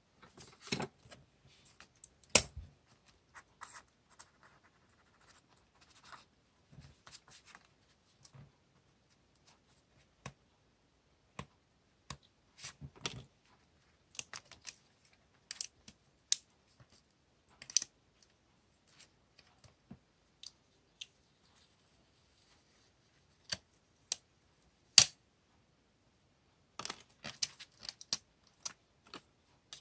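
Stationery being handled during diary decorating: scattered small taps and clicks with brief paper and sticker rustles. The sharpest clicks come about two seconds in and again near the end.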